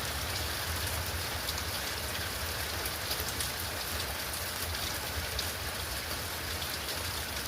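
Steady rain falling in a thunderstorm, with scattered sharper drop ticks.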